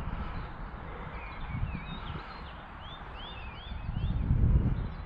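A small bird singing a quick run of short chirping notes over a low rumble of wind on the microphone, which grows louder about four seconds in.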